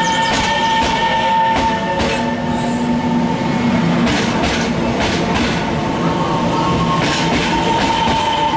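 Taiwan Railways electric multiple-unit commuter train pulling out past the platform, with a steady electric whine from its motors. Its wheels clack over rail joints several times, some in quick pairs.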